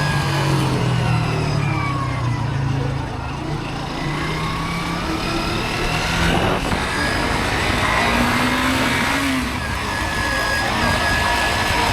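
Motorcycle engine running under way, its pitch falling and then rising again as the throttle is eased off and opened, with wind noise on the microphone.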